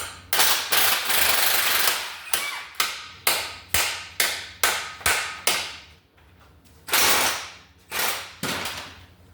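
Air impact wrench hammering in bursts while working stuck bolts off the engine: one run of about two seconds, then a quick string of short blips about two to three a second, and three more bursts near the end.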